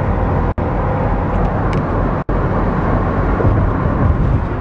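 Steady engine and road noise heard inside a moving vehicle's cab. The sound cuts out for an instant twice.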